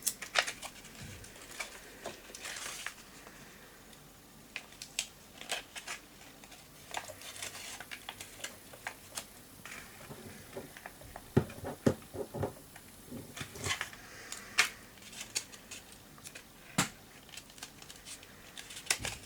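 Paper craft pieces handled and pressed together by hand: irregular small clicks, taps and paper rustles, a few of them sharper and louder.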